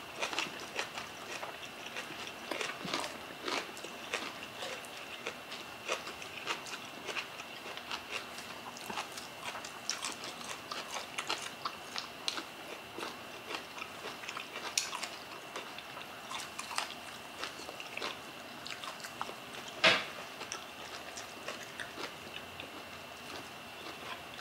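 Close-miked eating of steamed red snapper by hand: chewing and wet mouth sounds with many small clicks, and one louder click about twenty seconds in. A faint steady high whine runs underneath.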